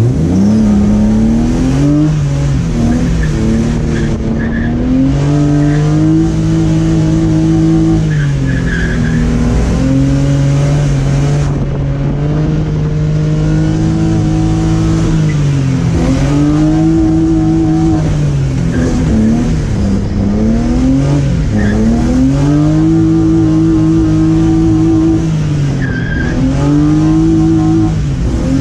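BMW E36 engine heard from the cabin, revving up and down again and again while drifting. It holds high revs for several seconds at a time, with brief dips between, over a steady hiss of road and weather noise.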